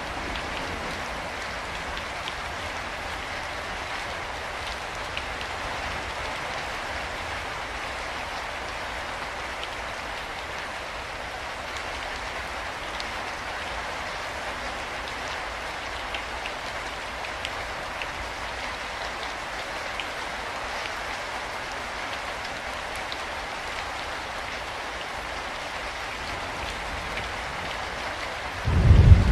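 Steady rain falling, with scattered drops ticking. Near the end a sudden loud, low rumble of thunder breaks in.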